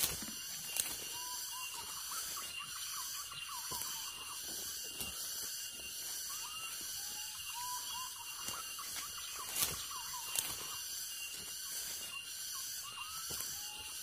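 Short whistled bird calls, brief rising and falling notes, scattered through over a steady high hiss, with a few sharp clicks, the loudest about ten seconds in.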